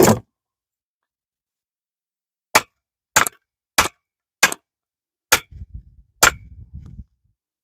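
An axe striking a log of firewood six times in a steady rhythm, each blow a sharp knock, with a low rattle after the last two blows.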